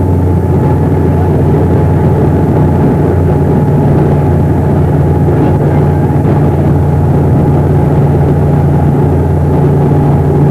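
Boat engine running steadily, a loud, even drone.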